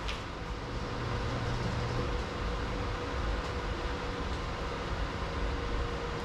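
Steady low mechanical rumble and hiss from a running machine, with a faint steady hum over it and a short click at the very start.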